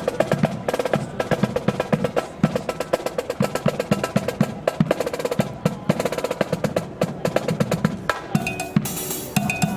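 Marching band's drum section playing a quick cadence on snare and bass drums, many strokes a second, thinning near the end where a short hiss cuts in.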